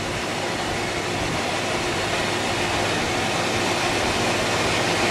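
Spirit box, a radio scanner sweeping rapidly through stations, giving out a steady rush of radio static with a choppy texture.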